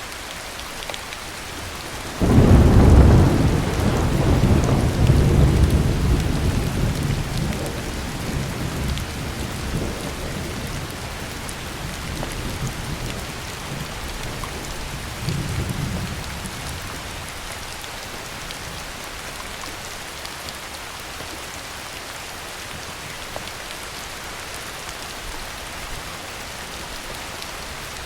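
Heavy rain falling steadily, with a clap of thunder that breaks in suddenly about two seconds in and rumbles low, dying away over some fifteen seconds, with a second, smaller swell of rumble partway through.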